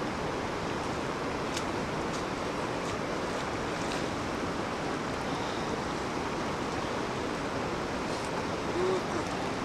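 Steady rushing of river water, an even hiss that holds through, with a few faint ticks now and then.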